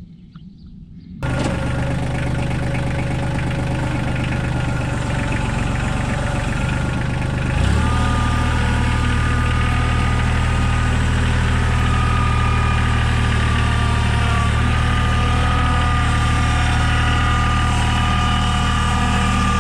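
A motor-driven machine starts abruptly about a second in and runs steadily. About two-thirds of the way through the first half its tone shifts and a steady whine joins it.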